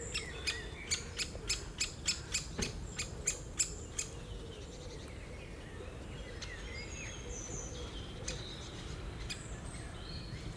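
Great spotted woodpecker giving a run of sharp, high "kik" calls, about three a second, that stop about four seconds in. Fainter twittering chirps of small birds follow.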